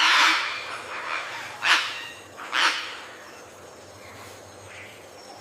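Birds calling: a loud harsh call at the start, then two sharp calls about a second apart, with fainter calls after.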